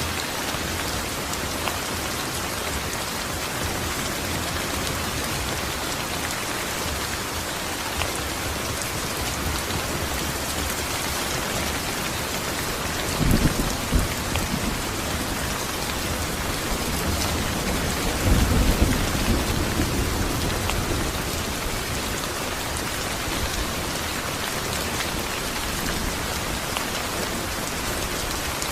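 Steady rain falling, an even hiss, with two low rolls of thunder: a short one about halfway through and a longer one a few seconds later.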